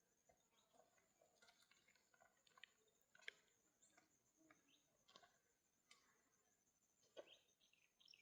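Near silence, with faint scattered clicks and small chirps and a faint steady high-pitched hiss.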